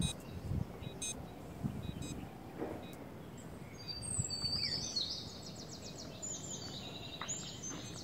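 Small birds chirping and singing in quick repeated high notes, starting about halfway in, over low outdoor noise with a few soft knocks.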